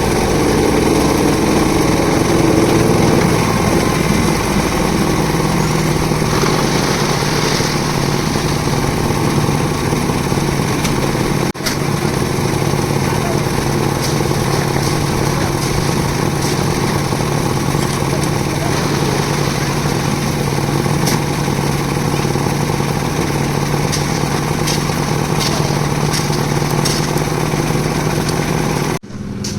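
Concrete mixer's engine running steadily with a constant low hum, the drum turning; the sound cuts off abruptly near the end.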